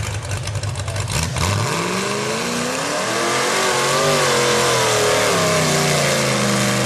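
A mud truck's engine starts on a low rumble, then about a second and a half in it revs up hard. The pitch climbs and holds high with a wavering note, dips, and rises again near the end.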